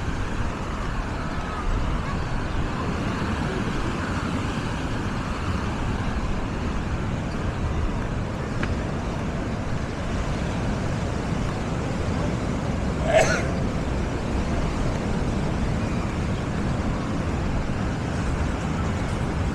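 Crowded-beach ambience: a steady rushing of surf and wind with faint voices of beachgoers. A brief, sharp high-pitched cry stands out about two-thirds of the way through.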